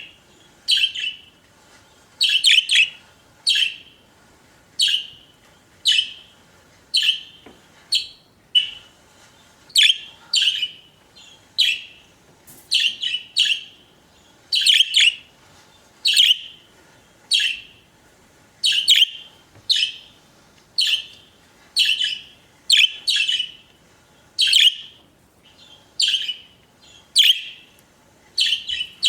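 Budgerigars chirping: short, sharp, high chirps repeated about once a second, some coming in quick pairs or threes.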